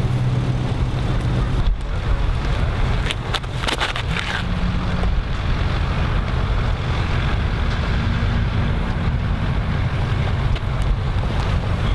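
Wind buffeting the microphone: a steady low rumble with some hiss, briefly dropping out just under two seconds in.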